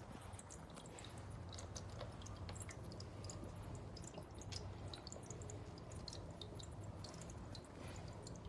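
Ceramic pet drinking fountain running: water dripping and trickling in quick, irregular drops over the steady low hum of its pump.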